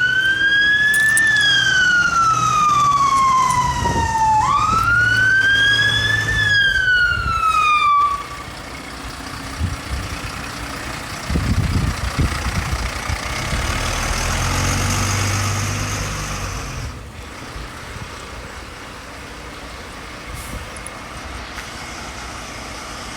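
Fire engine siren wailing, its pitch rising quickly and falling slowly twice before cutting off about eight seconds in. After that the truck's engine and traffic noise run on at a lower level.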